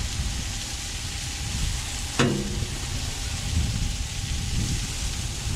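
Sliced bell peppers and onions sizzling on a hot Blackstone flat-top griddle as a metal spatula stirs and turns them. There is one sharp knock with a short ring about two seconds in, as the spatula strikes the griddle.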